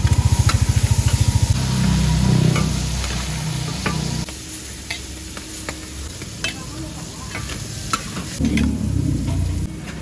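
Seafood frying on a large street-stall pan: a steady sizzle with scattered clinks and scrapes of a metal spatula. A low, fast engine throb sounds for about the first second and a half, then dies down to a faint rumble.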